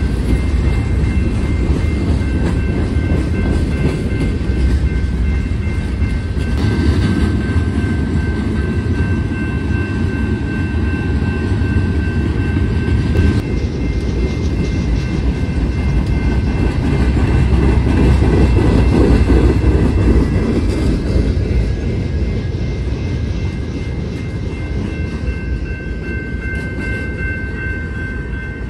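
Freight train cars rolling past: a loud, continuous rumble and rattle of steel wheels on the rails with steady high-pitched tones on top. It is loudest about two-thirds of the way through and eases off near the end.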